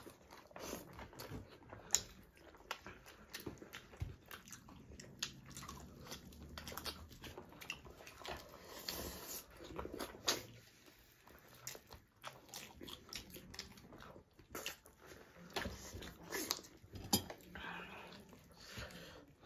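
Close-up mouth sounds of chewing and biting chicken drumsticks and rice eaten by hand: an irregular string of short smacks and clicks.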